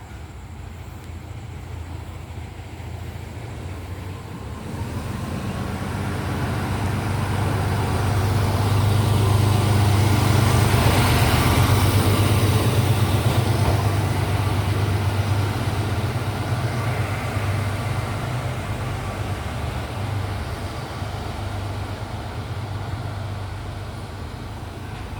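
Train running noise: a steady low hum under a rushing rail-and-wind sound that swells to a peak about ten seconds in and then slowly fades.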